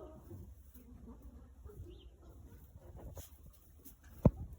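Faint Labrador puppy sounds and shuffling, with one sharp thump near the end.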